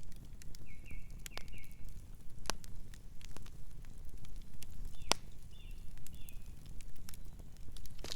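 Campfire burning with a steady low rumble and irregular crackles and sharp pops, one loud pop about five seconds in. Short high chirps come twice, about a second in and again near six seconds.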